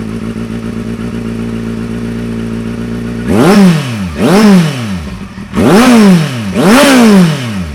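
Kawasaki Z800's inline-four engine breathing through an Akrapovic slip-on exhaust, idling steadily, then revved four times in a row from about three seconds in, each rev rising sharply and falling back to idle.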